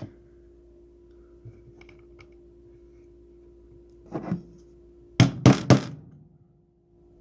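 A hammer striking the pin punch of a flip-key repair station to drive out a key's roll pin: one softer knock, then a second later three sharp, loud taps in quick succession.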